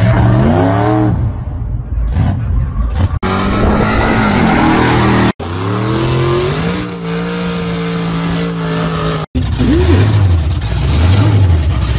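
Loud gasser drag-car engines in several short clips cut together: revving up and down, a stretch of dense hiss, a rev that climbs and then holds, and near the end an engine rising and falling in an even rhythm three times.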